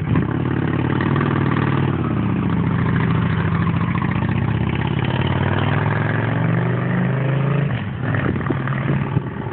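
Motorcycle engine running close by as the bike moves off, its pitch falling over the first two seconds and then holding steady. The engine note drops away about eight seconds in.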